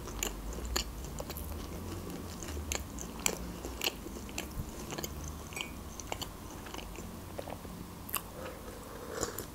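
Close-miked chewing of a soft lavash roll filled with cottage cheese: small wet mouth clicks and smacks scattered throughout, over a low hum. A sip from a glass mug near the end.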